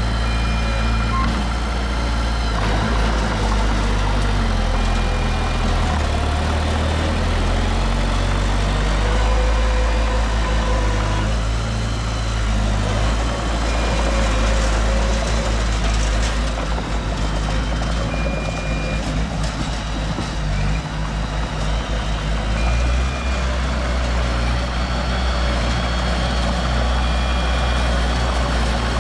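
Heavy diesel construction machinery running under steady load, with a reversing alarm giving a short high beep about every four seconds.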